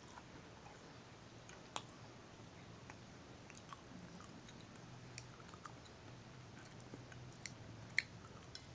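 Chewing a crunchy chocolate sandwich cookie: quiet crunches and mouth clicks, with a crisp bite into the cookie near the end.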